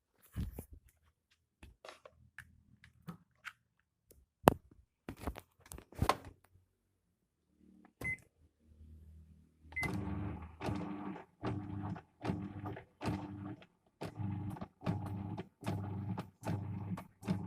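Washing machine motor, just fitted, starting up about ten seconds in and running with a hum that swells and fades about twice a second. Before it come scattered clicks and knocks of handling, and two short beeps. The run is taken as a successful test of the new motor.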